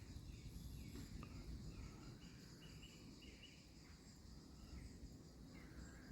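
Near silence: faint low background rumble with a small bird's short falling chirps repeated a few times a second.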